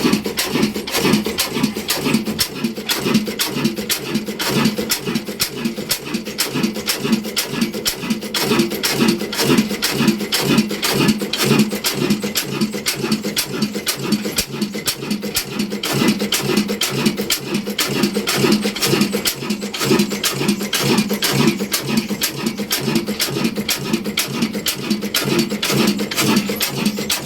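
Ruston Hornsby diesel oil engine chuffing in a fast, steady rhythm, with a clatter on every stroke.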